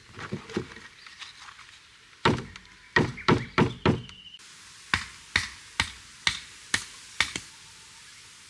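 Sharp chopping knocks in two runs: five quick strikes, then about a second later seven evenly spaced strikes at about two a second.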